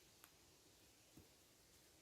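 Near silence: faint outdoor background, with a soft tick about a quarter-second in and a faint low thump a little after one second.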